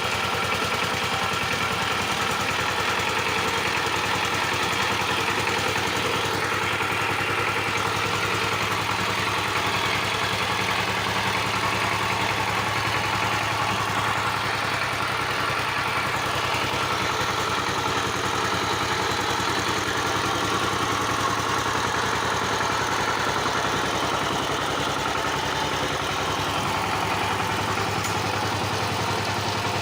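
Power tiller's single-cylinder diesel engine running steadily at an even speed.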